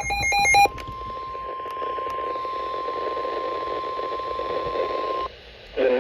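NOAA Weather Radio alert: the last of the chirping SAME data bursts, then the steady 1050 Hz warning alarm tone for about four and a half seconds, cutting off abruptly. This tone signals that a warning follows, and a voice begins reading it near the end.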